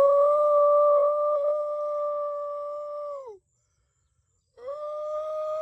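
Two long, steady held notes of the same pitch, like a hum. Each slides up at the start and drops off at the end, with about a second of silence between them.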